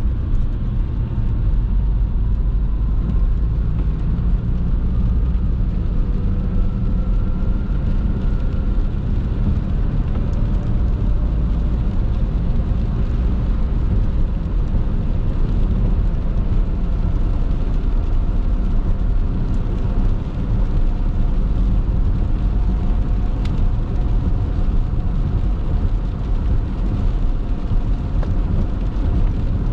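Car driving on a wet road: a steady low rumble of road and engine noise, with a faint whine that now and then rises and falls.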